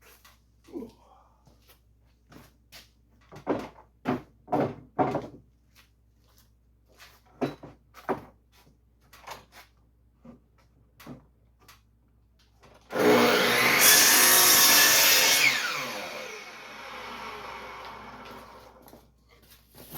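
Wooden boards knocking and clattering as they are handled, then about thirteen seconds in an electric woodworking power tool runs loudly for about two and a half seconds and winds down over the next few seconds.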